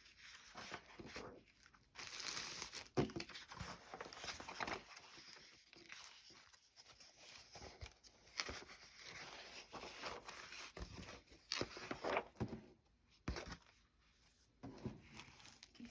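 Paper rustling and crinkling as paper doll book pages and loose sheets are handled and turned, with scattered light taps.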